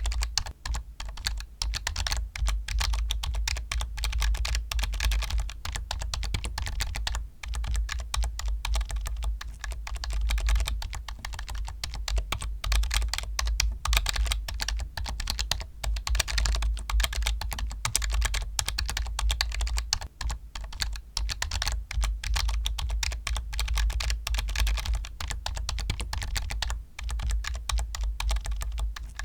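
Fast, continuous typing on a computer keyboard: dense key clicks with only a few brief pauses, over a steady low hum.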